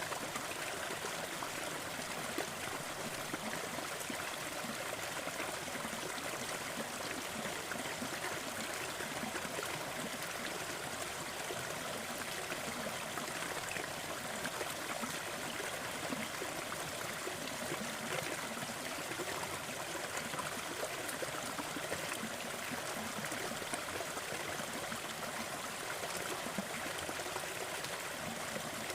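Steady, even rushing noise with faint small crackles scattered through it: a crackling fireplace layered over a continuous noise bed.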